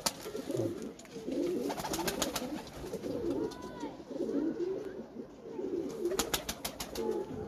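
Domestic pigeons cooing over and over in low, rolling phrases. Two quick runs of sharp clicks cut in, about two seconds in and again near the end.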